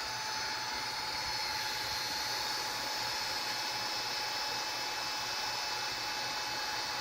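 Steady blowing hiss of a fan or blower running, with a faint constant whine.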